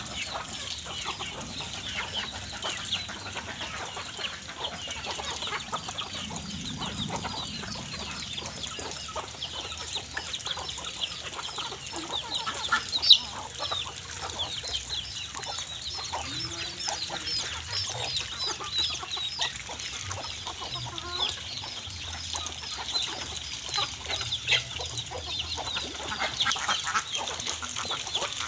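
A large flock of ducks feeding, with many short overlapping calls and chatter running on continuously.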